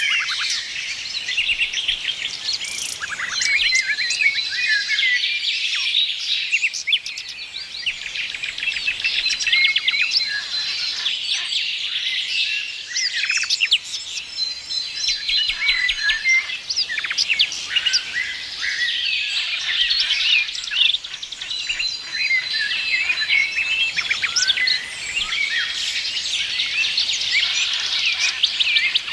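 A chorus of many songbirds chirping and trilling at once, a dense overlapping chatter, with now and then a thin held whistle.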